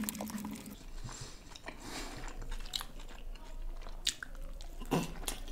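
Close-miked eating sounds: biting into and chewing a steamed butter chicken momo, with scattered soft mouth clicks.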